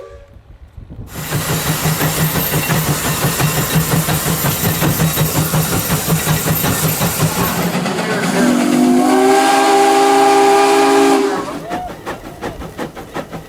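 A 150 hp Case steam traction engine working, with a loud steady hiss and a regular beat of exhaust chuffs. About eight seconds in, its steam whistle blows a chord of several tones for about three seconds, sagging in pitch as it shuts off. A quieter steady chuffing follows.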